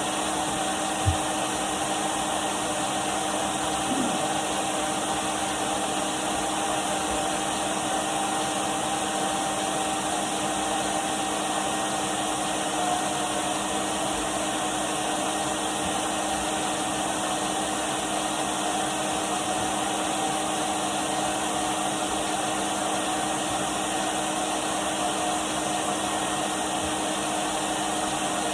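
Numatic Henry canister vacuum cleaner running steadily: an even rushing hiss with a constant motor whine underneath. A brief knock about a second in.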